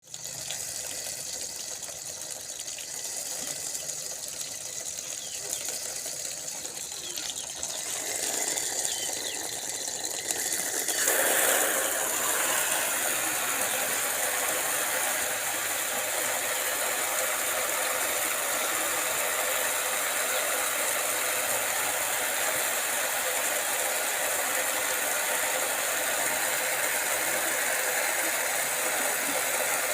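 Steady hiss of water being sprayed to bathe a pet bird, growing much louder about eleven seconds in and holding steady after that.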